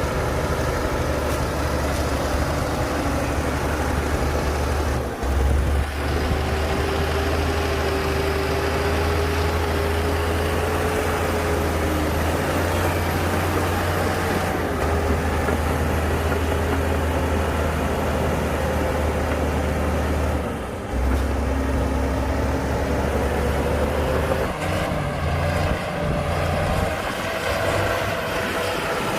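Heavy diesel earthmoving machinery running steadily under load, a deep engine hum with a fainter whine above it, broken by short dips about 5 and 21 seconds in.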